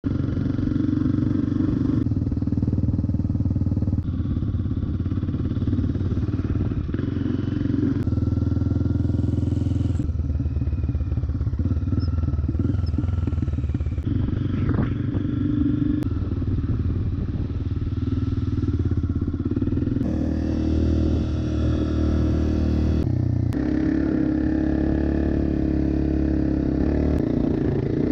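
Honda CRF250F dirt bike's single-cylinder four-stroke engine running under way while riding, its engine note shifting abruptly several times.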